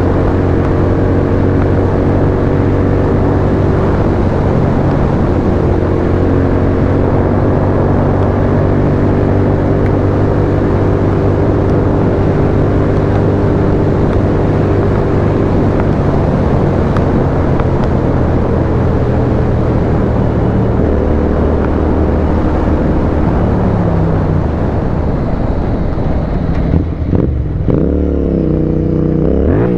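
Royal Enfield Continental GT 650's parallel-twin engine through a custom exhaust, heard on board while riding. It holds a steady note for about twenty seconds, then the pitch falls away as the bike slows, dipping and rising a few times before revving up again at the end.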